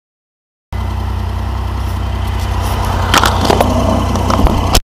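Steam-hauled train standing at a station platform: a steady low rumble that cuts in suddenly under a second in, with several sharp knocks and clatters in the last two seconds, before cutting off abruptly.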